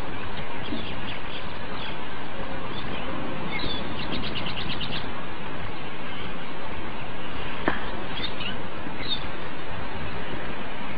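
Small birds chirping over a steady outdoor hiss: a few scattered high chirps, then a quick run of about eight chirps in one second about four seconds in, and two more single chirps later. A single sharp click sounds about two-thirds of the way through.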